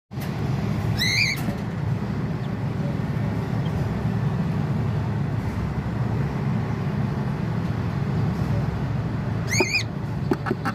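A cockatiel gives two short chirping calls, one about a second in and one near the end, each rising and then falling in pitch. Under them runs a steady low rumble.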